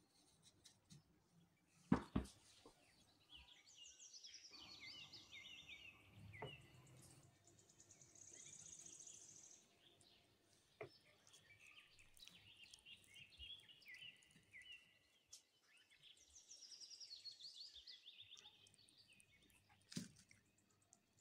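Faint bird chirping in the background, with two runs of quick falling chirps and a steadier high trill between them. A sharp knock about two seconds in and another near the end stand out as the loudest sounds.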